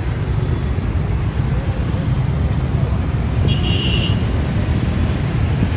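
Dense city street traffic: a steady low rumble of many engines, with one short high tone about three and a half seconds in.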